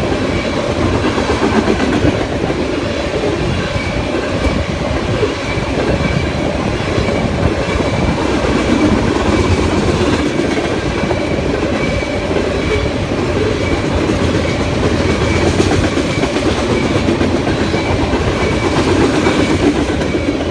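Loaded tank cars of a freight oil train rolling past at steady speed: a continuous rumble and rattle of steel wheels on the rails, clacking over rail joints.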